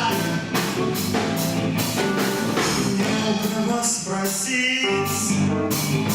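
Rock band playing live: drum kit hitting a steady beat under guitars, with a voice singing.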